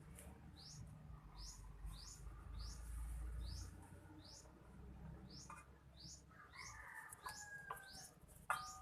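A small bird chirping over and over, about two short rising chirps a second, over a low rumble. Near the end come a few sharp metallic clinks with a brief ring, the loudest sound here.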